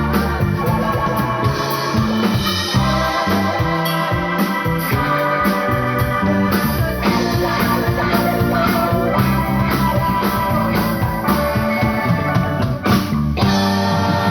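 A live band playing, with held organ-like keyboard chords over bass and a steady drum beat. The band breaks briefly near the end.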